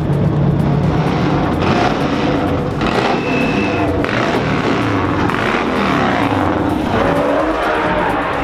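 Classic Ferrari sports and racing car engines running as the cars crawl past, their pitch rising and falling, with music underneath.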